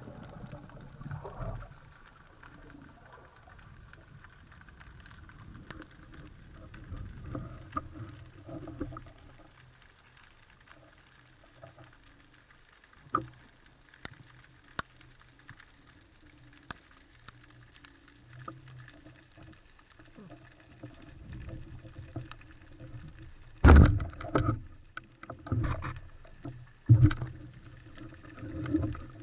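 Underwater sound on a spearfisher's camera: a faint low rush of water with scattered sharp clicks. About three-quarters of the way in come several loud low thumps and water movement.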